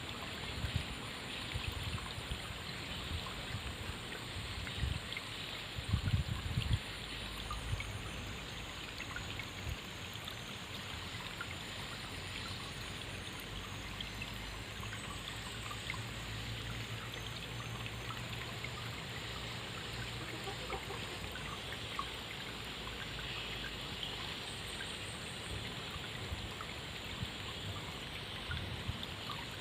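Flowing water in a stream, a steady trickling and babbling. A few low thumps about six seconds in.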